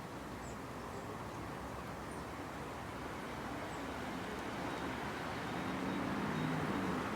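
Steady outdoor background rush, swelling a little in the second half with a low hum, like distant traffic. A few faint, short, high chirps.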